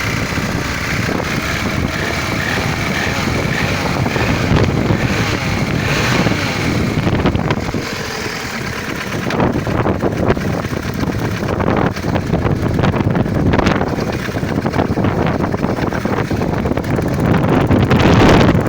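Opel C16SE engine running with an unexplained knock from the cylinder head, heard with a rushing noise on the microphone.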